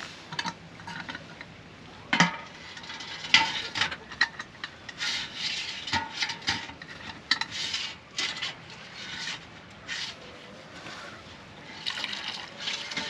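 Water sloshing and splashing, mixed with irregular knocks and clatter.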